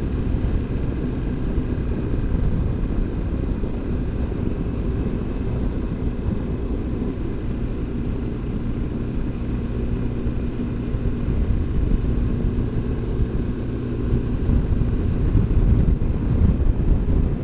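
BMW R1200GS Adventure's boxer-twin engine running steadily at road speed, with wind rush. It gets a little louder near the end.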